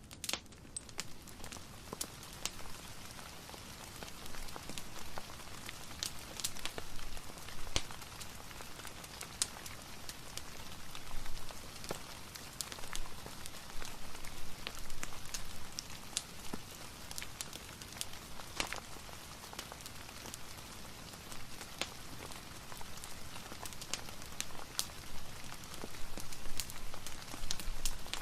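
Steady rain with a crackling fireplace, with sharp pops and ticks scattered throughout.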